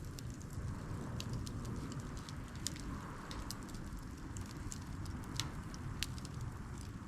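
Wood campfire built as a crib stack crackling, with irregular sharp pops and snaps over a low steady rumble.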